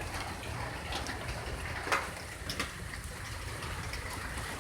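Rain falling steadily, with a few sharper drips or splashes about two seconds in, over a low steady rumble.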